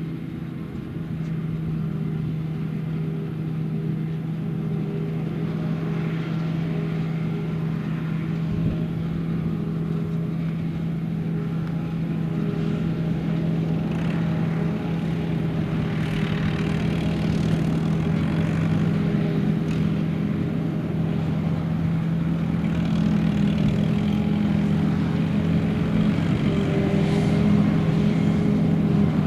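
Diesel engine of heavy farm machinery running steadily, growing gradually louder and picking up in pitch about three quarters of the way through.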